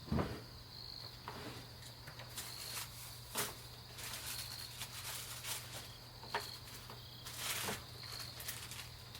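An insect chirping a short, high call about every two seconds, with scattered knocks and a brief scrape from work being done; the loudest knock comes right at the start.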